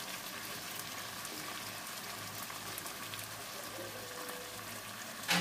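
Hilsa fish in a thick mustard-and-poppy-seed gravy sizzling and bubbling steadily in a nonstick wok, a fine even crackle as the sauce cooks down. One sharp click sounds near the end.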